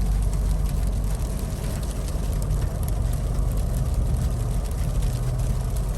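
Steady low rumble of a 2021 Ford Explorer ST heard from inside the cabin: its engine and tyres on a snow-covered road.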